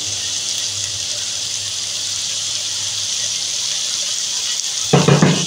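Chicken, onion and spices frying in oil in a wok with a steady sizzle as chopped carrots and green pepper are tipped in. There is a short louder sound near the end.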